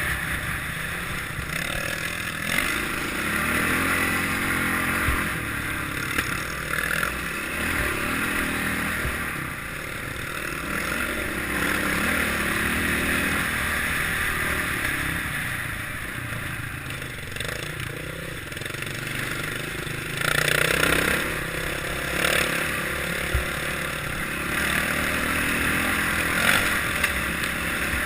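Kawasaki KLX650R's single-cylinder four-stroke engine running as the bike is ridden on an enduro trail, its pitch rising and falling with the throttle, with clattering and scraping over the ground. A louder burst comes about twenty seconds in.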